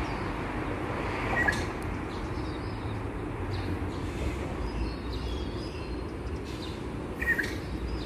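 Wild birds chirping: two short sharp notes, one about a second and a half in and one near the end, with fainter high calls between them, over a steady low background rumble.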